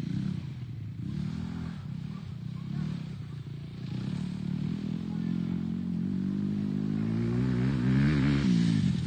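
Dirt bike engine running and revving, its pitch gliding up and down, growing louder toward the end, where it rises and then falls in pitch.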